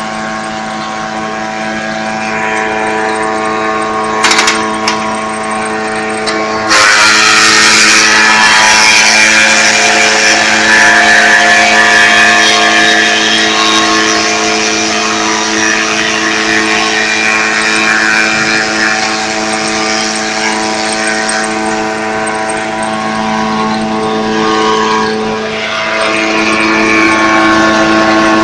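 JF 50 Maxxium forage chopper, driven by a tractor, running with a steady machine hum; about a quarter of the way in, loud, dense chopping noise sets in as oil palm fronds are fed through and shredded, and it keeps on over the hum.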